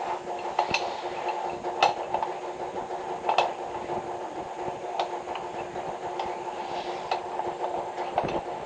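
A small engine running steadily, with scattered sharp clicks and knocks over it, about one every second or two.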